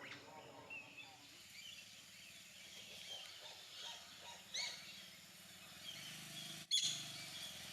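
Faint birdsong: scattered short, high chirps and calls from wild birds against a quiet outdoor background, with one sharp click about two-thirds of the way through.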